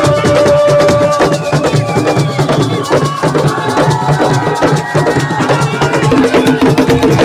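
Live assiko band music: fast, dense hand drumming and clacking percussion over a few held melodic notes.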